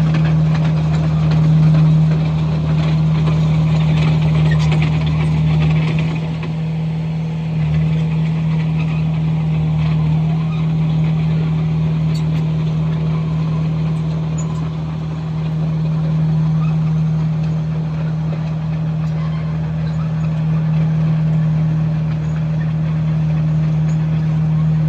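Komatsu bulldozer's diesel engine running with a steady low drone, a little quieter for a moment about six seconds in.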